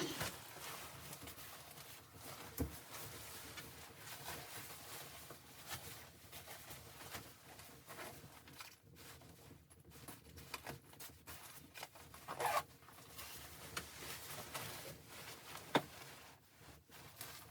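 Close rustling and handling noises with scattered clicks and a few sharp knocks, the loudest about three seconds in and near the end.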